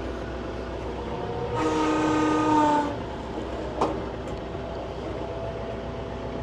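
Compact tractor engine running steadily. About a second and a half in, a louder horn-like tone sounds for just over a second, dipping slightly in pitch at the end. A short sharp click follows about four seconds in.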